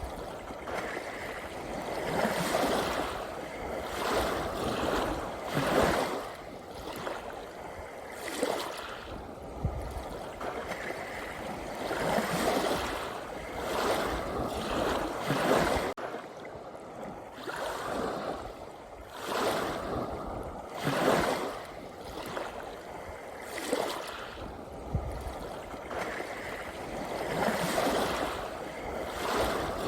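Sea waves washing and breaking in steady succession, the surf swelling and falling back every second or two.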